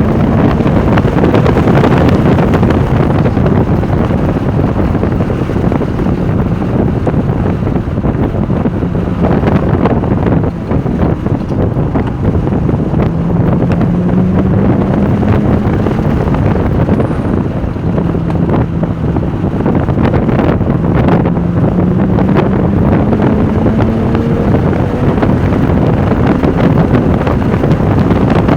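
Porsche 996 Turbo's twin-turbo flat-six under load at speed, its note climbing through the revs and dropping back at gear changes, twice around the middle. Heavy wind noise on the microphone covers much of it.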